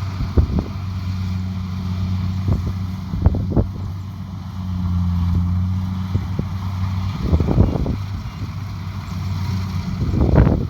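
Kubota DC70 Pro combine harvester's diesel engine running with a steady low drone, with irregular knocks and rattles from the machine and a louder cluster of them near the end.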